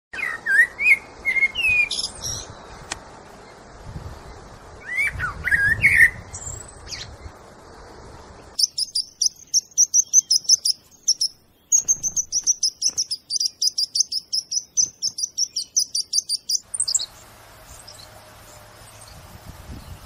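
Wild birds calling. First come several short sliding calls over a noisy background. From about eight seconds in, a fast run of sharp, high notes repeats about four times a second with a brief break partway, then stops abruptly after about seventeen seconds, leaving background noise with a faint steady hum.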